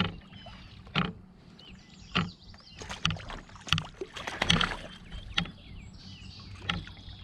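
Irregular hard knocks and splashing at a kayak, about one a second and busiest near the middle, as a freshly caught fish is landed and handled aboard.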